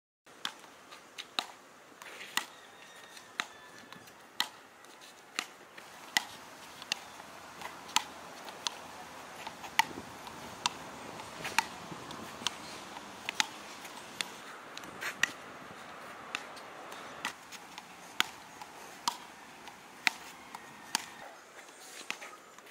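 Road tennis rally: a stripped tennis ball struck back and forth with wooden paddles and bouncing on a concrete court, giving sharp clicks about one to two a second over a faint background hiss.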